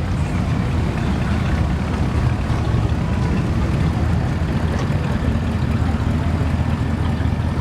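Classic car engines rumbling steadily as the cars cruise slowly past.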